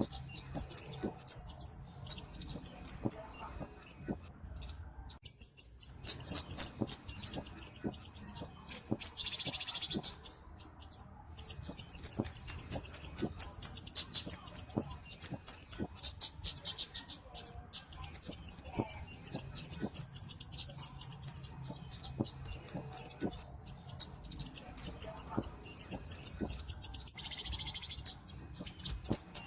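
Flowerpecker (cabe-cabean) singing: long runs of rapid, high-pitched chip notes, about six or seven a second, in phrases of several seconds broken by short pauses.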